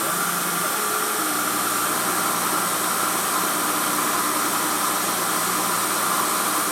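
Emco F1 CNC milling machine's spindle running steadily at 2000 RPM while a 2.8 mm drill feeds into a cast aluminium engine pan. It gives an even whine and hum, and the tones step slightly about a second in.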